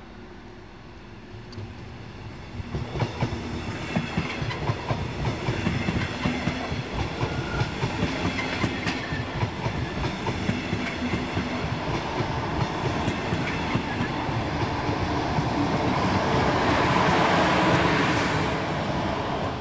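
Double-deck regional express train, cab car leading and an electric locomotive at the rear, passing at speed, its wheels clattering over rail joints and points. It grows louder from about three seconds in, is loudest shortly before the end, and then cuts off suddenly.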